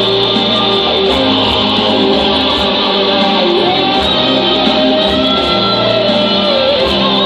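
Instrumental rock played live: an electric guitar playing a melody over a backing band with a steady bass line.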